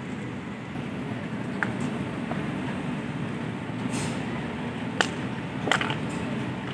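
Indian Railways passenger coaches rolling past on the track: a steady low rumble with a few sharp clicks and clanks, the sharpest about five seconds in.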